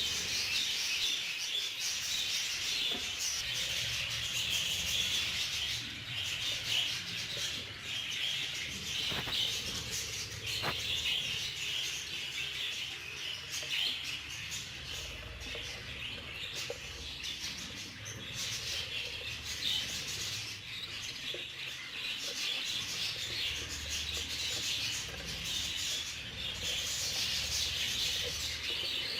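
Many budgerigars chattering and chirping together in a continuous, dense high-pitched twitter.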